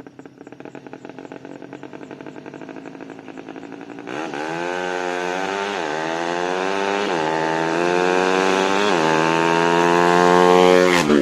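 Tuned Yamaha Jupiter 130 cc single-cylinder four-stroke motorcycle engine running at low revs, then opening up sharply about four seconds in. It revs hard, its pitch climbing with three brief dips as it shifts up through the gears, getting louder until its pitch drops suddenly near the end.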